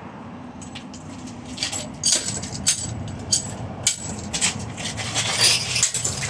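Irregular knocks, clicks and scraping of metal and plastic ceiling fan parts being handled and broken apart.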